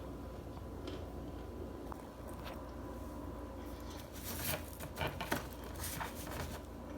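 Dry starch being crunched: scattered faint crackles, then a cluster of crisp crunches from about four seconds in to past six seconds.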